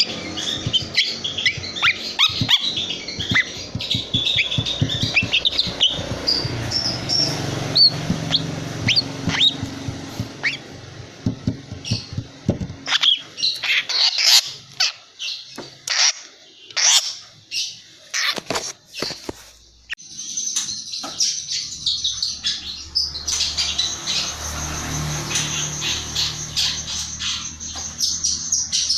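Young long-tailed shrike (cendet), about three months old, singing a fast run of high chirps, broken in the middle by a series of separate sharp calls before the dense chatter resumes.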